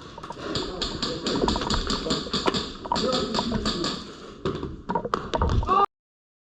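Airsoft guns firing in rapid bursts of sharp clicking shots. The sound cuts off suddenly to dead silence near the end.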